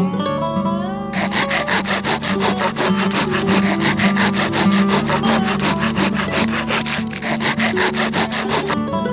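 Silky handsaw cutting through wood in quick, even back-and-forth strokes, starting about a second in, pausing briefly near the end and stopping just before it finishes.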